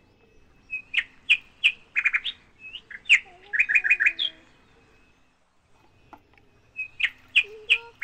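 Small birds chirping in quick runs of short, high chirps, with a few lower sliding notes around the middle; the chirping pauses for about two seconds, then starts again near the end.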